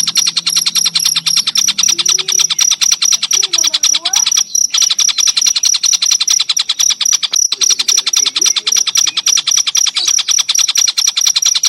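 Cricket (jangkrik) chirping in a fast, even pulse train with a steady high ring, breaking off briefly twice, about four and a half and seven and a half seconds in.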